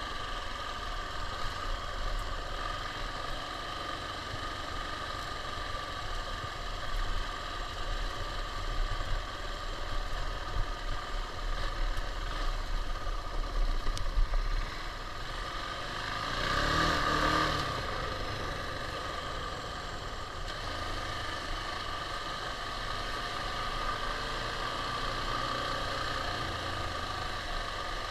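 KTM 690 single-cylinder motorcycle engine running at a steady speed, with uneven louder peaks through the middle stretch and a brief swell in sound about two-thirds of the way through.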